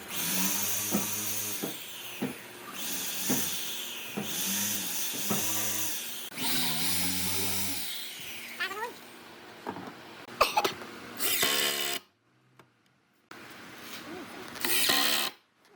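Power tool cutting wood in repeated bursts a second or two long, over a steady motor hum. The sound drops out suddenly about twelve seconds in and returns briefly near the end.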